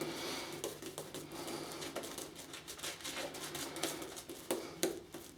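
Wolf Whiskers shaving brush working Williams shaving cream lather over the face: soft swishing with many small crackling clicks.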